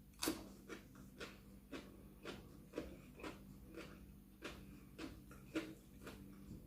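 A person chewing food close to the microphone: a run of soft, wet mouth clicks about two a second, over a faint steady hum.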